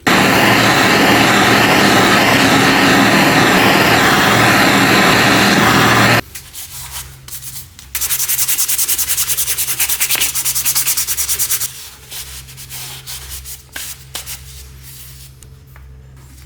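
Abrasive power tool sanding metal or wood in two bursts: a steady stretch of about six seconds that cuts off suddenly, then, after a short pause, about four seconds with a rapid, even pulsing.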